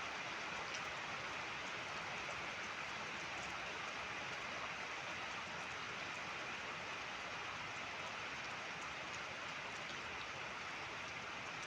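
Steady rain falling: an even hiss with faint drop ticks here and there.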